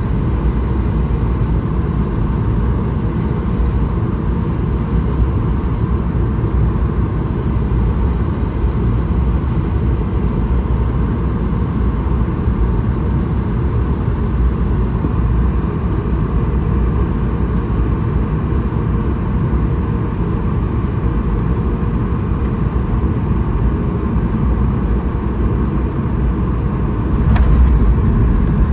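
Steady cabin noise inside an Airbus A220-300 in flight: a low rumble of airflow and its Pratt & Whitney geared turbofan engines. Near the end there is a short click, and the low rumble becomes louder.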